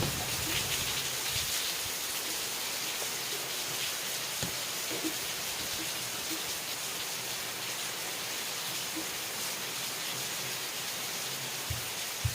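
Steady rain falling, an even hiss with scattered small drop ticks, and a few short low thumps near the end.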